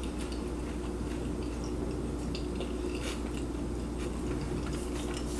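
Close-up chewing of a bite of torta (a breaded-steak sandwich): soft, wet mouth clicks and small crunches, over a steady low hum.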